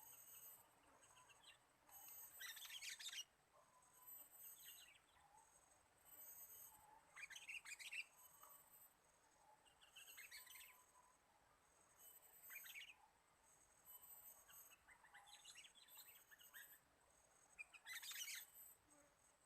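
Small songbird giving short, quick chattering chirps in bursts every few seconds, with a faint high whine pulsing on and off behind them.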